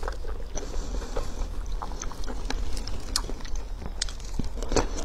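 Close-miked chewing and biting of a lettuce wrap with sliced pork: a run of short wet mouth clicks and crunches over a steady low hum.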